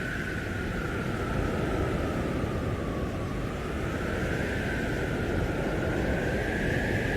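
Blizzard wind blowing hard: a steady rush with a whistling howl that slowly wavers in pitch, dipping midway and rising again near the end.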